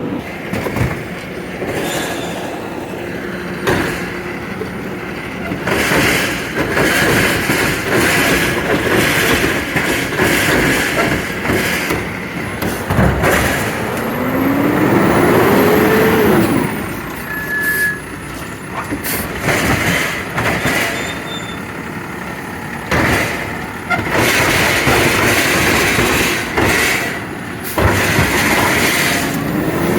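Garbage truck working, its engine running with repeated knocks and clanks, and a rising whine as the engine revs up about halfway through.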